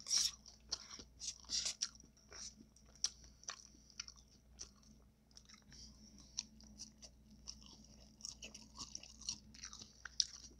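A person chewing a taco close to the microphone, with irregular sharp clicks and mouth sounds and a louder bite right at the start.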